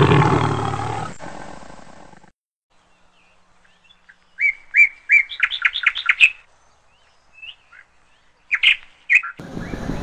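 A loud, deep sound fades out over the first two seconds. After a short hush, a bird chirps a quick run of about eight sharp notes, then a few scattered chirps. Street noise comes in near the end.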